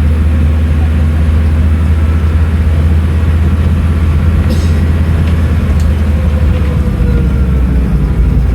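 Scania N310UA articulated city bus running, a steady low drone throughout, with a faint whine that falls slightly after about six seconds and a brief click about four and a half seconds in.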